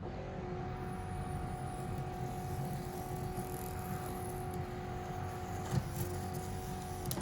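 Power antenna motor of a 2002 Lexus RX300 running with a steady whine as it drives the newly fitted replacement mast up. The whine cuts off about seven seconds in, when the mast reaches the top.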